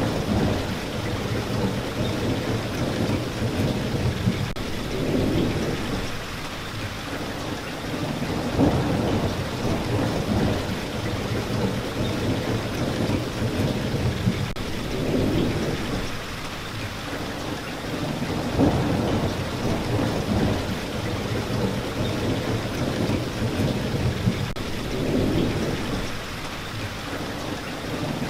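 Steady rain hissing, with low rolls of distant thunder swelling and fading every few seconds.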